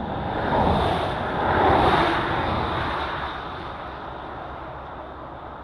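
A vehicle passing by: a rushing noise that builds, peaks about two seconds in and fades away.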